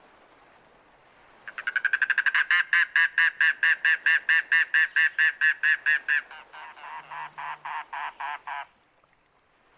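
Mangrove cuckoo giving its long guttural call: a fast run of throaty, croaking notes, about six a second, that changes about six seconds in to slower, lower notes before stopping.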